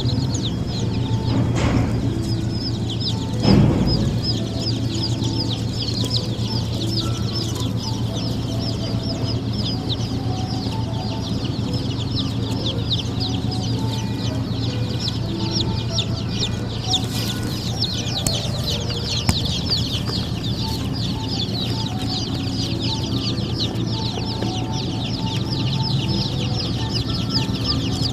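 A crowd of baby chicks peeping all at once, a dense, unbroken chorus of short high chirps over a steady low hum. A single thump about three and a half seconds in.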